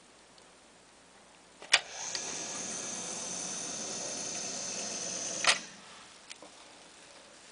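Sump pump switching on with a sharp click, running steadily with a high whine for nearly four seconds, then shutting off with another click. This is one on-off cycle of the pump emptying its pit as the float switch trips.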